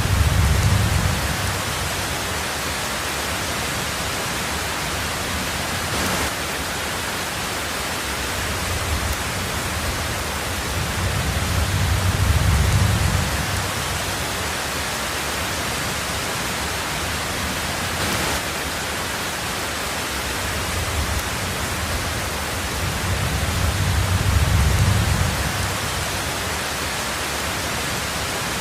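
Heavy rain falling on a tin roof, a steady dense hiss, with a low rumble of thunder swelling and fading three times, about every twelve seconds.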